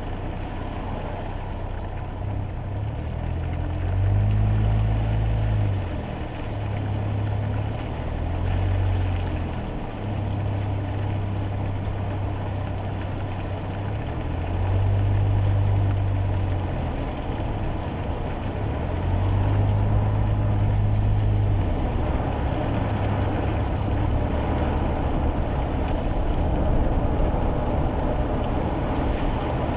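Inside a kei car's cabin on a wet road: the small 660 cc engine's low drone swells and eases several times over a steady hiss of tyres and road noise.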